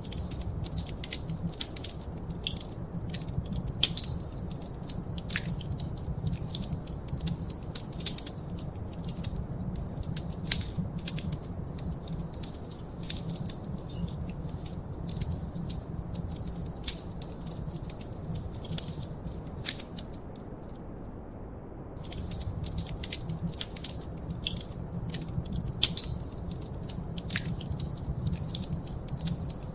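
Wood fire crackling, with many sharp pops and snaps over a steady low rumble of flame. The crackles thin out for about a second roughly two-thirds of the way in, then pick up again.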